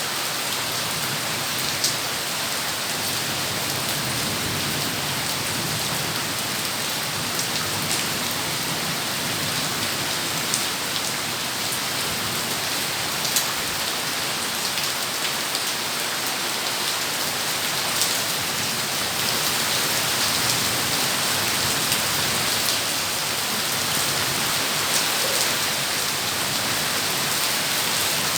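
Heavy rain falling steadily in a continuous hiss, with scattered sharp clicks of individual drops striking close by.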